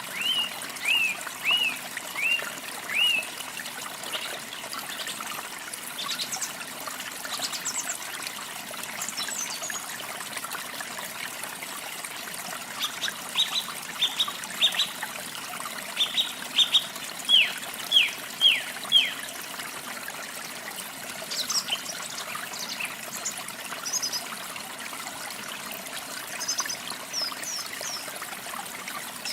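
Songbirds singing over a steadily trickling stream. A bird gives about six short whistled notes in the first few seconds, then a longer run of loud downward-slurred notes around the middle, with thin high chirps scattered throughout.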